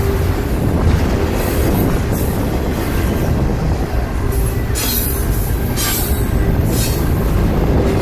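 Double-stack container well cars of a freight train rolling past: a steady heavy rumble of steel wheels on rail, with a faint squeal at times and hissing surges about five seconds in. Wind buffets the microphone.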